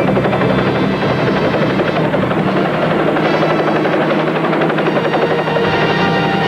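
Cartoon sound effect of a fast, steady, helicopter-like whirring.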